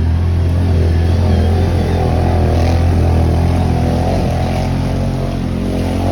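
Enduro dirt bike engine running at a fairly steady speed, its pitch wavering slightly.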